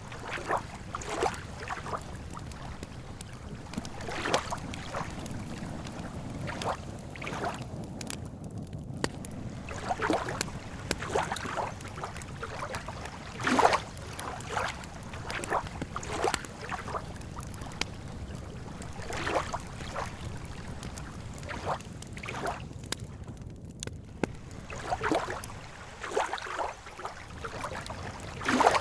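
Campfire crackling and popping at irregular intervals, with a few sharper, louder pops, over a low steady wash of lake water lapping.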